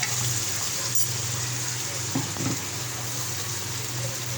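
Chicken and ground spices frying in oil in a pan, a steady sizzle at the bhunai stage where the masala is fried. A steady low hum runs beneath it, with a few light knocks about a second in and again past two seconds.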